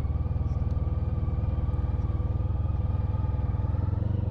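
Honda ST1300 Pan European's V4 engine running at a steady cruise, an even low drone.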